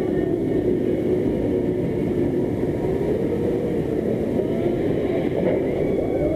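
Vekoma suspended looping roller coaster train running along the track, heard from the front row: a loud, steady roar of wind and running noise with a droning tone. Wavering whines join in from about three seconds in.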